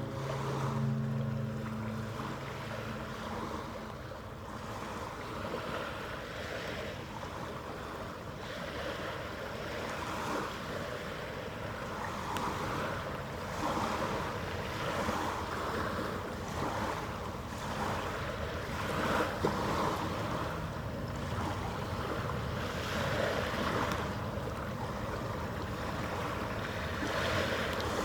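The cruise ship Disney Wonder's deep horn sounds low steady notes that end about two seconds in. After that comes a continuous wash of moving water, with wind buffeting the microphone.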